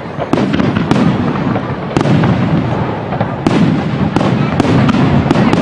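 Aerial fireworks display: a continuous low rumble of overlapping shell bursts, broken by sharp cracks about once or twice a second.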